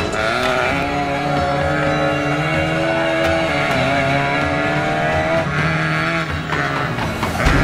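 FSO Polonez rally car's engine revving hard as the car is driven flat out, its pitch climbing and then dropping back and climbing again.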